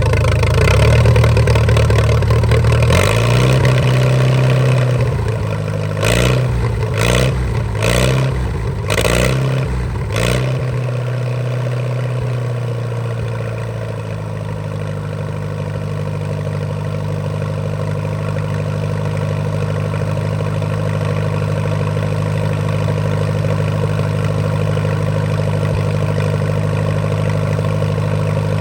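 Allis-Chalmers tractor engine running, blipped up several times in quick succession a quarter of the way in, then settling to a steady idle.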